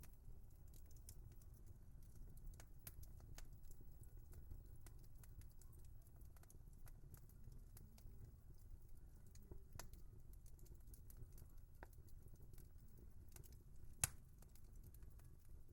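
Wood fire crackling faintly in a fireplace: scattered small snaps and ticks over a low steady rumble, with one sharper pop near the end.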